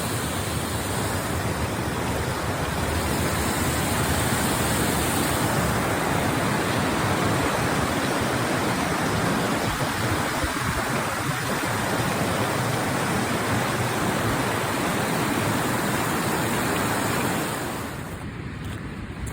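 River water rushing steadily close to the microphone. It drops away suddenly near the end.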